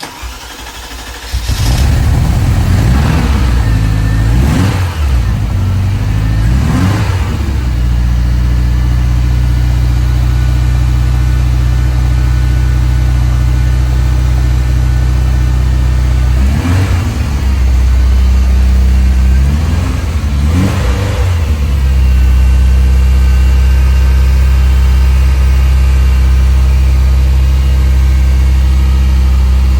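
Ferrari 328 GTS 3.2-litre V8 started from cold: it cranks briefly and catches about a second and a half in. It is blipped three times, settles to idle, is blipped twice more near the middle, and then holds a steady, slightly louder idle for the rest.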